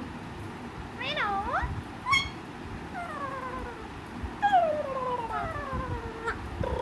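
Alexandrine parakeet calling: a series of about five gliding calls, one dipping and rising, the later ones mostly falling in pitch.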